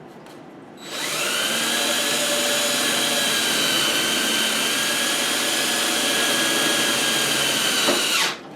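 Handheld electric power tool running at a steady speed for about seven seconds with a constant high whine. It starts about a second in and cuts off near the end.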